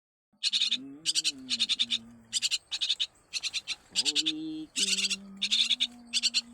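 Baby birds' begging calls: short, high, rapidly pulsed chattering bursts, about two a second, over a low, mostly steady humming tone.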